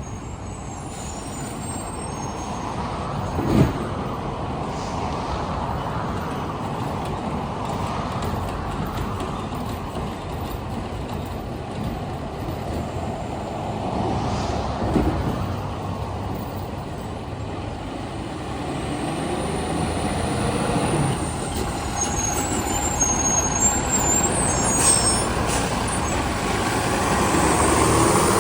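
Heil STARR garbage truck running steadily, with two sharp knocks, one a few seconds in and one about halfway.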